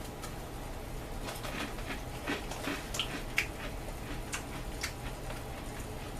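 A person chewing crunchy dry potato sticks: scattered, irregular crisp crunches over a steady low hum.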